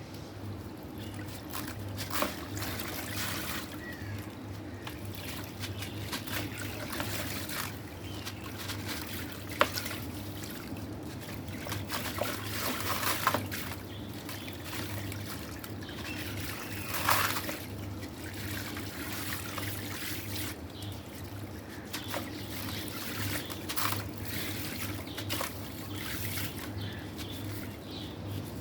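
Crumbly black stone breaking apart and dissolving in water: a continuous trickling crackle of small irregular clicks, with one sharp click about a third of the way through and louder spells of crumbling later. A low steady hum runs underneath.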